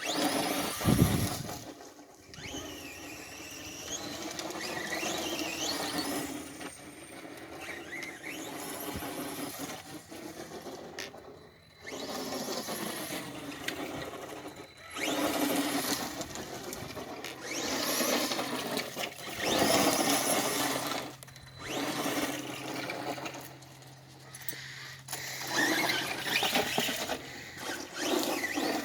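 RC truck's motor whining in repeated bursts, its pitch rising and falling as the truck speeds up and slows down.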